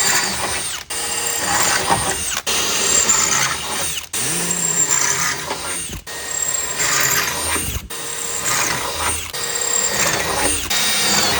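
Power drill boring out spot welds in a car body's sheet steel, running loud and steady with a high whine. It stops briefly several times, every second or two.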